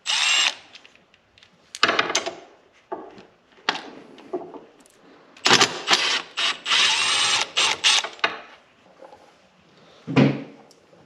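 A 13 mm socket wrench at work on the bolts of a tractor's air cleaner support bracket: several bursts of ratcheting and metal clinking, the longest a little past the middle.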